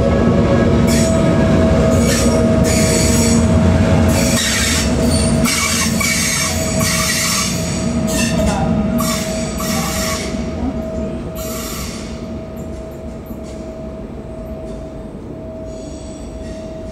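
Swiss RABDe 560 'Domino' commuter train running over the station's curves and points, its wheels squealing in a run of high shrieks over a steady whine and rumble. The squealing dies away after about twelve seconds, and the rumble fades as the train draws off.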